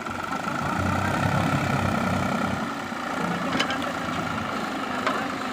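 Heavy diesel engine of earth-moving machinery running, pulling harder and deeper for the first couple of seconds, then settling. Two short metallic clicks come near the end.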